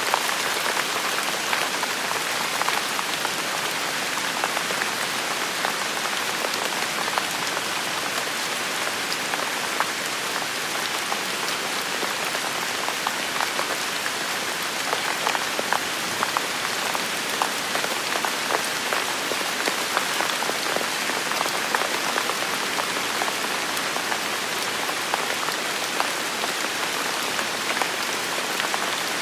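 Steady rain falling, a dense even hiss thick with the small ticks of individual drops hitting a surface.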